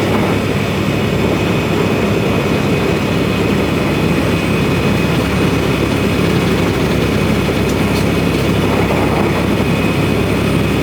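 Semi truck's diesel engine and road noise heard inside the cab while driving, a steady, unchanging drone.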